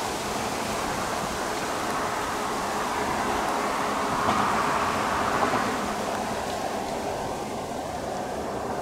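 Diesel freight locomotive running at a distance under a steady wash of traffic noise, a little louder about four seconds in and easing off afterwards. No crossing bell strikes are heard.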